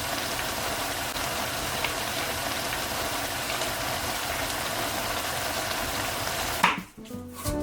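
Food sizzling in a hot pan: a steady hiss with a few small pops. It cuts off sharply near the end.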